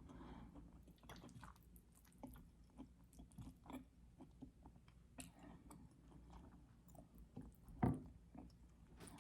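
Faint chewing of food close to the microphone, with small wet mouth clicks and one louder short sound about eight seconds in.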